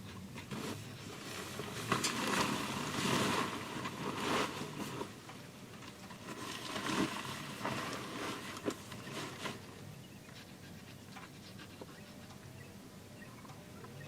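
Irregular rustling and scraping with a few sharp clicks, as of gear or fabric being handled, in two louder spells, then dying down to a faint steady hiss.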